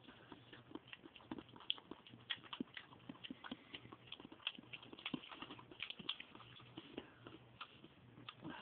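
Faint, irregular wet smacking and clicking of a person eating canned dog food.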